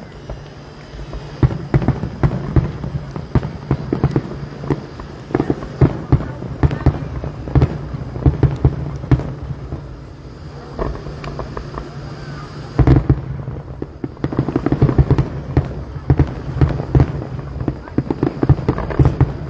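Fireworks finale: a rapid string of shell bursts and bangs, thinning out briefly around ten to twelve seconds in, then a dense barrage of overlapping reports from about thirteen seconds on.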